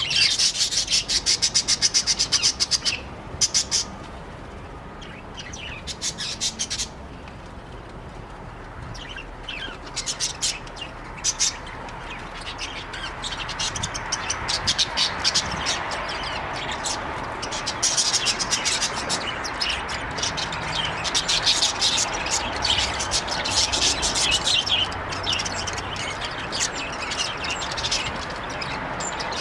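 Budgies chirping in fast runs of short, high calls, loudest in the first three seconds, thinning out, then coming thick again from about the middle on.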